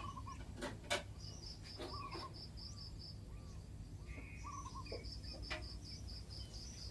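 An insect chirping in a rapid even pulse train, about seven pulses a second, which stops for a moment in the middle and then resumes. Faint short bird chirps and a couple of sharp knocks come in over it.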